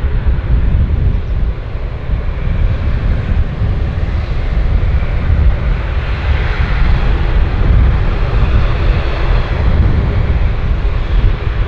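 Airliner engines rumbling loudly as an aircraft passes close by: a continuous low roar with a faint steady hum, swelling a little midway.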